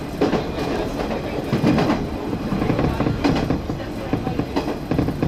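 Diesel railcar running along the track, heard from inside the carriage: a steady rumble with wheels knocking over rail joints a few times.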